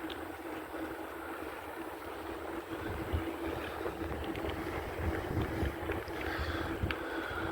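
Wind buffeting the microphone of a phone carried on a moving bicycle, with gusty low rumbles, a steady low hum and a few light clicks from the ride.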